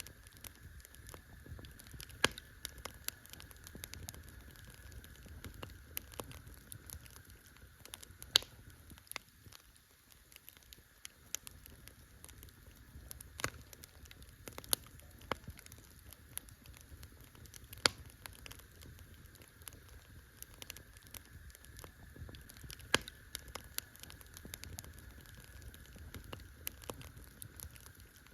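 Wood campfire crackling: irregular sharp pops and snaps, a handful much louder than the rest, over a low steady rumble.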